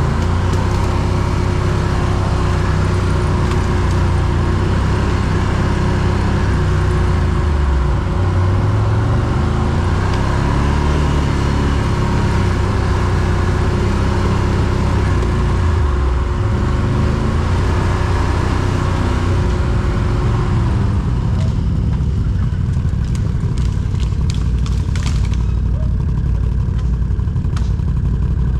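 Quad bike (ATV) engine running under load, its pitch rising and falling as the throttle is worked. A few sharp knocks near the end.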